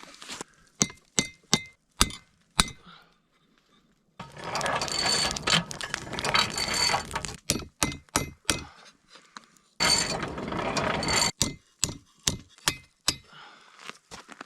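Hand work on a knife: a string of sharp clinks and taps, with two longer stretches of rough scraping, like filing or rasping, about four and ten seconds in.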